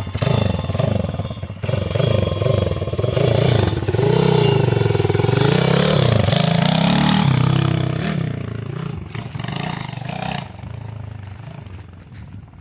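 Pit bike engine revving hard, its pitch climbing and dropping again and again as it is ridden round the track through the gears. It is loudest mid-way and fades away near the end as the bike moves off.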